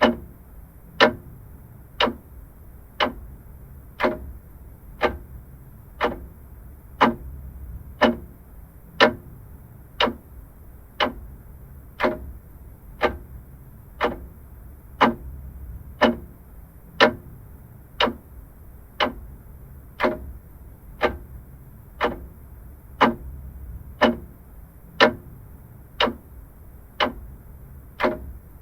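Vintage mechanical clock ticking at one tick a second, the ticks alternating louder and softer in a tick-tock pattern, over a faint low rumble.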